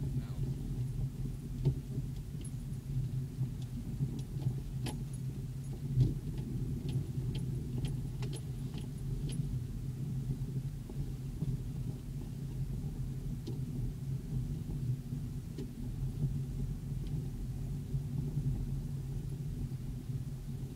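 Vehicle engine and drivetrain in a steady low rumble, heard from inside the cab while driving through snow. Scattered clicks and rattles come through, thickest between about five and nine seconds in.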